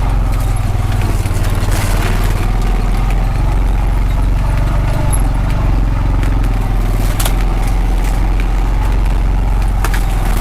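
Honda Pioneer 520 side-by-side's single-cylinder engine running steadily at low speed while crawling over rough ground, with a few sharp knocks, at about 2, 7 and 10 seconds in.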